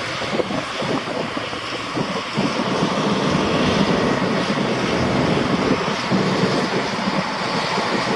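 Steady outdoor street noise: wind on the microphone and a vehicle engine running, slightly louder from about two seconds in.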